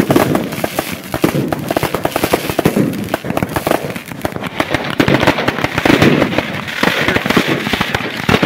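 Aerial fireworks bursting in rapid succession: a dense, unbroken run of bangs and crackles, the crackling growing thicker in the second half.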